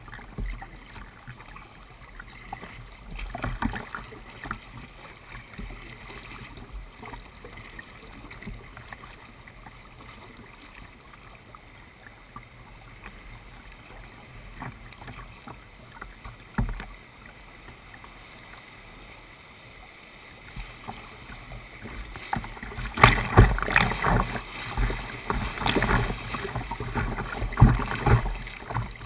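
Kayak paddling: paddle blades dipping and splashing in the water, with scattered knocks against the hull. The splashing gets louder and busier about three quarters of the way in.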